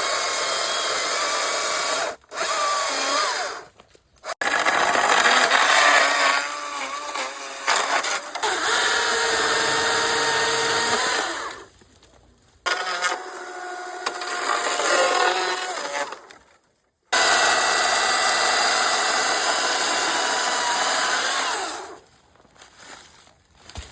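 Cordless STIHL battery chainsaw run in about five bursts of one to five seconds each, a loud motor-and-chain whine that starts and stops sharply each time.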